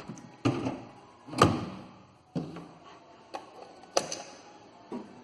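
A microwave oven being handled as a popcorn bag is put inside: about six sharp knocks and clunks, the loudest about a second and a half in.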